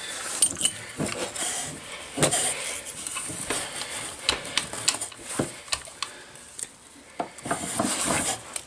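Hand tools and metal parts clinking, tapping and scraping irregularly as an outboard motor's lower-unit gear case is worked apart, with scattered short knocks throughout.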